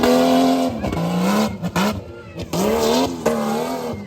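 Tough truck's engine revving hard, its pitch held high with brief dips about once a second and climbing back each time as it is driven over the course.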